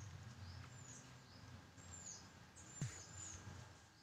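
Faint, high bird chirps, short with a falling tail, repeating every second or so over a low, steady room hum. A single click comes near three seconds in.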